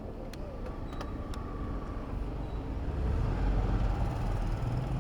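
City road traffic heard from a moving bicycle, with a motor vehicle's low rumble swelling about three seconds in as it passes close. A few light clicks in the first second and a half.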